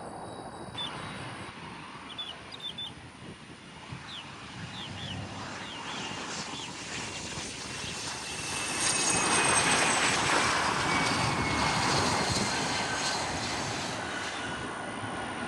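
Jet airplane passing by, its turbine whine sliding down in pitch as it goes past; the sound swells to its loudest a little past halfway and then eases off.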